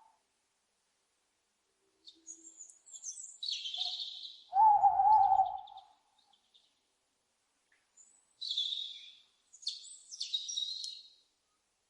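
Owl calls: several harsh, high-pitched screechy calls, and about four and a half seconds in one louder, wavering, lower call lasting about a second.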